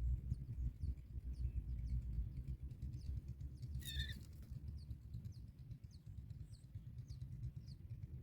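Faint small-bird chirps recurring over a steady low rumble, with one short, clearer bird call about four seconds in.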